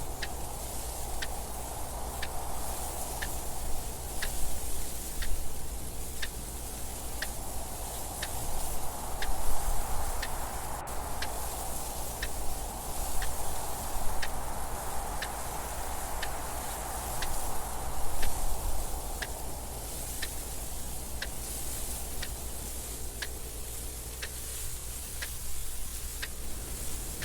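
A clock ticking steadily and evenly, over wind noise that swells and eases in slow gusts, with stronger surges about a third and two-thirds of the way through.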